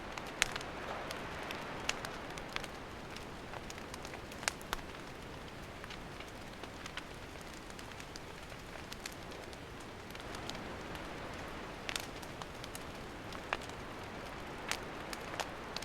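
Wood campfire burning: a steady hiss with scattered sharp crackles and pops throughout, a few noticeably louder than the rest.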